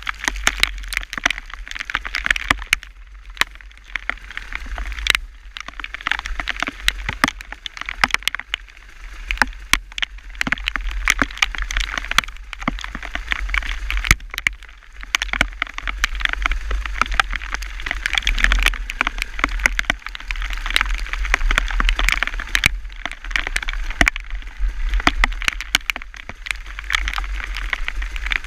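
Hailstones pelting a hard surface: dense, irregular sharp clicks over a steady hiss of rain, with a low rumble underneath.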